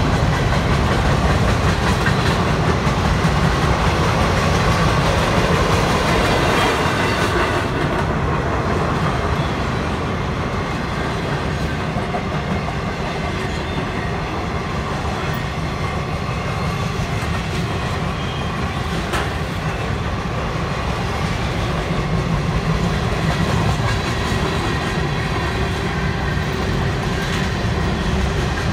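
Freight cars rolling steadily past at a grade crossing: a continuous low rumble of steel wheels on rail, with the clickety-clack of wheels over rail joints. A few sharp clicks stand out.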